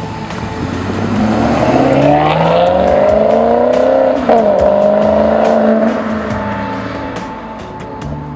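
Maserati GranTurismo MC Stradale's V8 accelerating hard, its pitch rising steadily, with a sharp upshift about four seconds in. It then pulls again in the next gear before the sound fades away. A music bed runs underneath.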